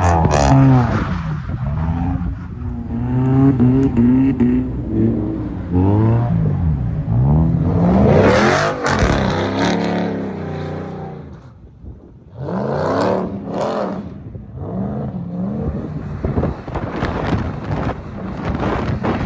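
Subaru Impreza's flat-four engine revving up and down again and again as the car slides on snow, with a rush of noise from about 8 to 10 seconds in and a short lift-off near the middle before it revs again.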